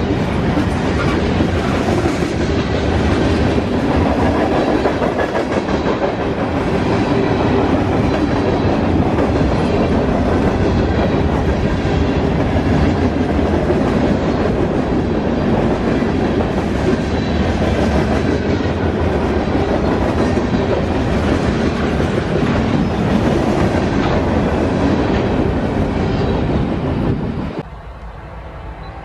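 Norfolk Southern freight train rolling past close by, its wheels clattering steadily over the rails; the sound drops off abruptly near the end.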